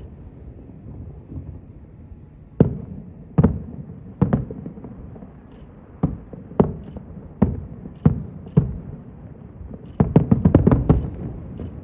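Aerial fireworks shells bursting: separate booms about a second apart, each trailing off in a short echo, then a quick string of about seven bangs near the end.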